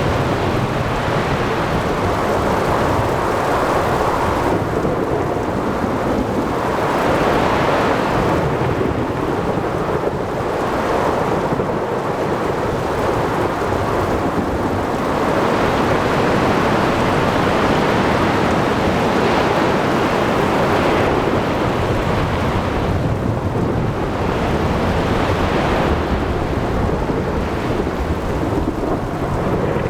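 Thunderstorm at sea: steady heavy rain with thunder rumbling underneath, the whole noise swelling and easing every few seconds.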